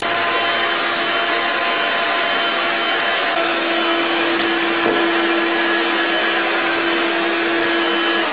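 Vacuum cleaner motor running steadily, a loud even whooshing with a steady hum that gets stronger about three seconds in.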